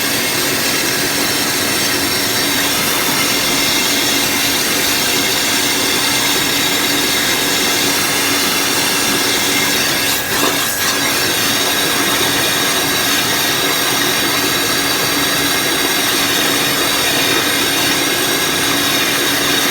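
HL QL-1200 electric high-pressure washer running steadily, its motor and pump giving a constant whine as it sprays water, with a brief dip about ten seconds in.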